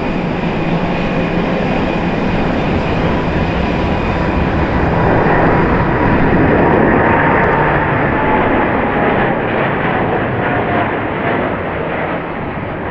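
Jet airliner engines passing, swelling to a peak about halfway through and then fading, with a faint whine dropping slightly in pitch.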